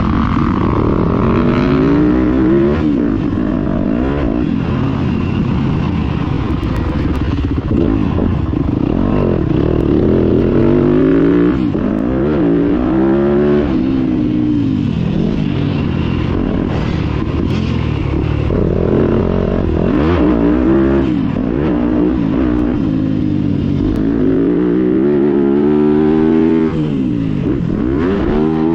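Small two-stroke motocross bike engines revving hard and backing off over and over, the pitch climbing and dropping in repeated sweeps.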